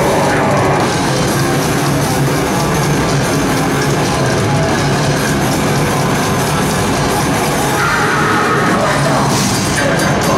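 Live heavy metal band playing loud, with distorted guitars and drums, heard from the crowd.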